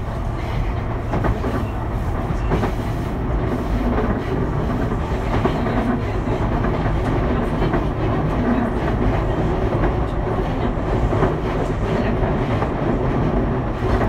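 Running noise heard inside a Sotetsu 12000 series electric train car at speed: a steady rumble of wheels and car body, with irregular clicks as the wheels pass over rail joints.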